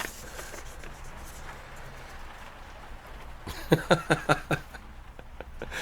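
Faint steady background noise with a brief click at the start, then a quick run of five or six sharp knocks or rustles about three and a half seconds in.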